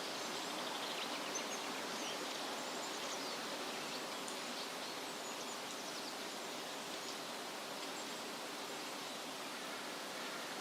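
Wind rustling through leafy trees as a steady, even hiss, with faint high bird chirps in the first few seconds.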